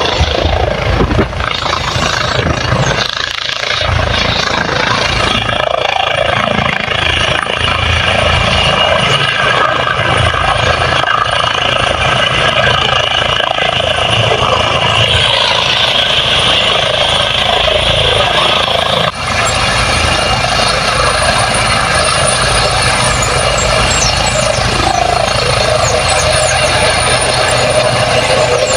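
Helicopter running close by: a steady mix of turbine whine and rotor noise. A high whine swells about halfway through and drops back about two-thirds of the way in.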